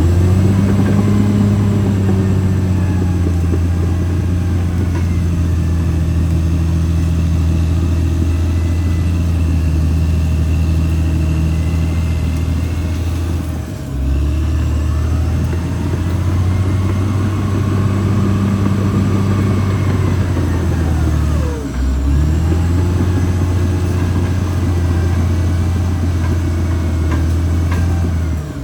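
Caterpillar D6R XL bulldozer's diesel engine running steadily, a continuous low drone, with a fainter whine above it that rises and falls in pitch. The sound dips briefly twice, about halfway through and about three quarters through.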